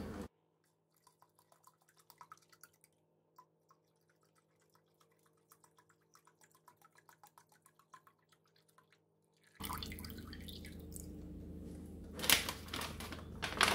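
Chicken broth poured from a carton into a pot of stock: a faint trickle with small irregular drips. Near the end, louder handling noise with a couple of knocks.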